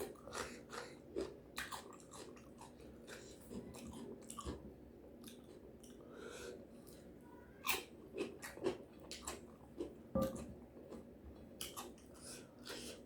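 A person chewing and biting crunchy food close to the microphone, with irregular clusters of sharp crunches and wet mouth clicks.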